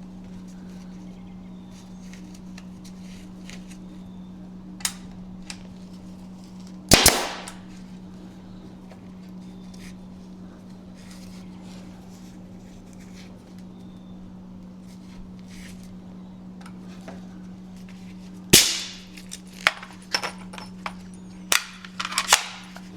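Pneumatic nail gun firing nails into wooden stakes: one sharp shot about seven seconds in, another near the last third, then a quick run of smaller knocks and shots near the end, over a steady low hum.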